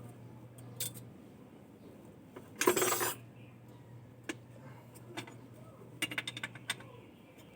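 Metal hand tools and engine parts clinking as they are handled, with a louder half-second clatter about three seconds in and a quick run of small clinks near the end, over a steady low hum.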